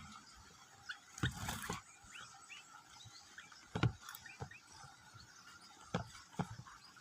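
Nestling birds giving many faint, short rising cheeps, broken by several sharp knocks and a brief rustle in the nest, the loudest about a second and a half in, near four seconds and around six seconds.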